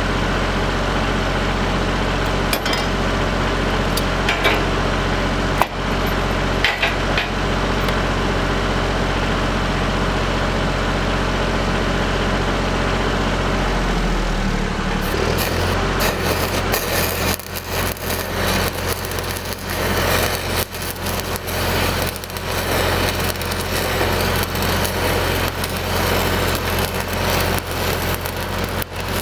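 An engine-driven welder's engine runs steadily. About halfway through its note shifts and a continuous crackling, uneven in loudness, sets in over it: a stick-welding arc burning 8010 rods.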